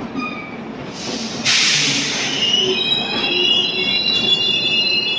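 Express train coaches rolling out of a station. About a second and a half in a sudden loud hiss comes in, and from about halfway the wheels squeal in several high, steady tones.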